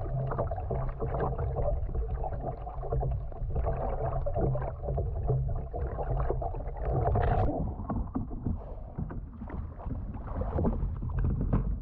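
Sea water sloshing and gurgling around a swamping homemade kayak, with a constant low rumble on the microphone and a sharper splash about seven seconds in.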